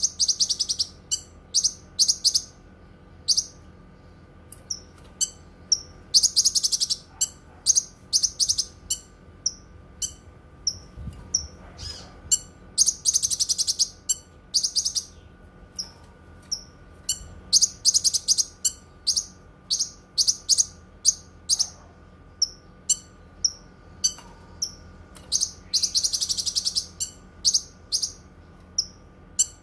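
A cucak kinoi songbird singing: long, rapid, high-pitched trills, four of them, with many short sharp chirps between.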